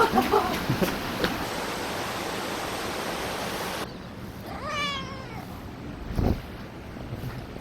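A single drawn-out animal call, after a stretch of steady noise with scattered knocks that cuts off suddenly; a dull thump follows about a second after the call.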